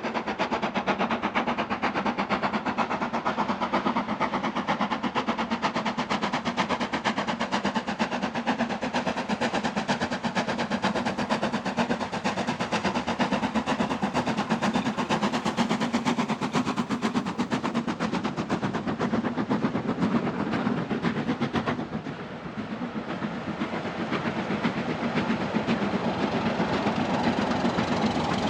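Railway locomotive working, with a rapid, even beat over a steady low hum. The sound drops about 22 seconds in and then builds again.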